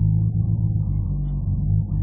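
Toyota Celica GT4 ST185's turbocharged 3S-GTE four-cylinder engine running warm with a steady low drone, its speed shifting slightly now and then. This engine has an erratic-revving fault that shows once it is warm and that a replacement throttle position sensor has not cured.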